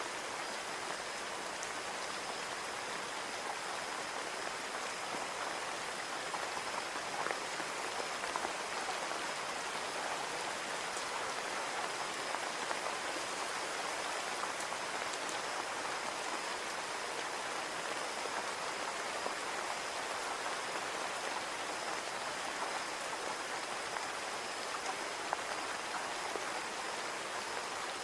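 Steady rain falling on a window: an even hiss of rain with scattered small drop ticks.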